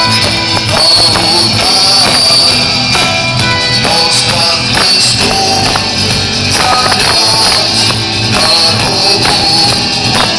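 Band music playing loud and steady, with a bright jingling high end.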